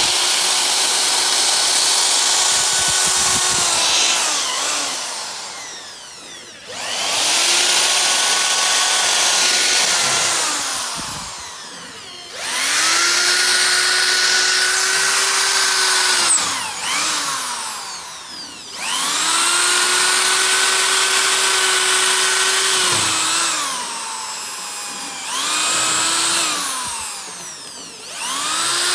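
A power drill run in about six bursts of a few seconds each. Each burst holds a steady whine, then falls in pitch as the drill winds down between bursts.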